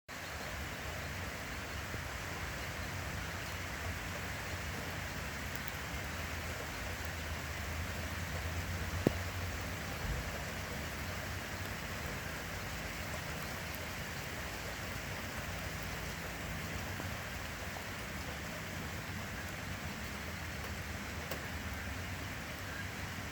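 Steady rain falling, with a sharp knock about nine seconds in and a smaller one a second later.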